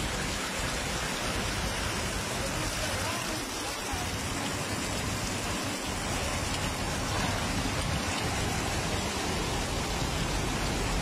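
Heavy rain pouring down on a flooded street, with muddy floodwater running through it: a steady, unbroken hiss.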